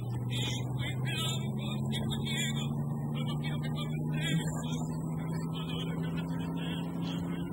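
Car engine running steadily at an even speed while driving, heard from inside the cab as a constant low hum.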